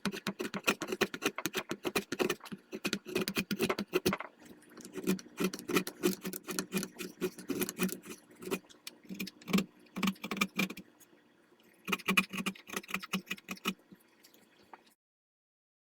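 A draw knife shaving walnut off the end of a rifle buttstock, in bursts of rapid scraping, chattering cuts with short pauses between them. It stops abruptly near the end.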